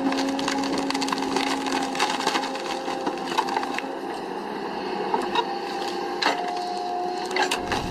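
Wood cracking and splintering with many sharp snaps, as a hydraulic stump-pulling machine tears a stump and its roots from the ground. A steady machine whine runs underneath and shifts pitch partway through.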